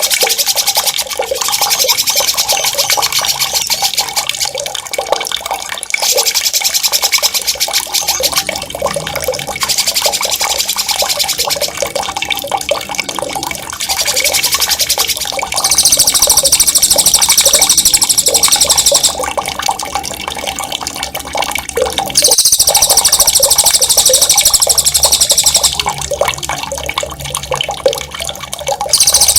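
Songbird giving long, fast, high rolling trills (ngerol), in about six bouts of a few seconds each, over the steady sound of running water.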